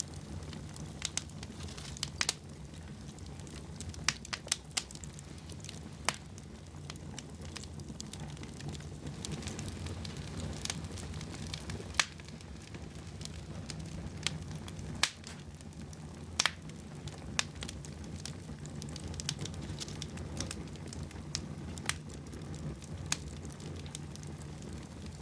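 Wood fire burning in a fireplace: a steady low rumble of the flames with irregular sharp crackles and pops, a handful of them louder than the rest.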